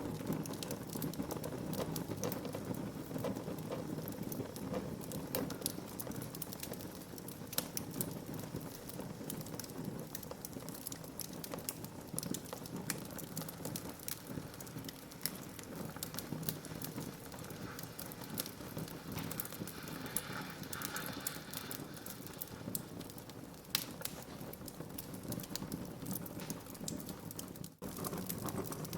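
Wood fire burning in a fireplace: a steady low hiss and rustle with frequent sharp crackles and pops. The sound drops out for an instant near the end.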